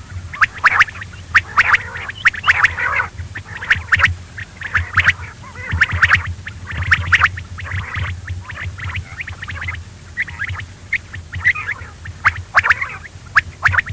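Quail calling over and over in short bursts, about one or two a second, with a steady low hum underneath.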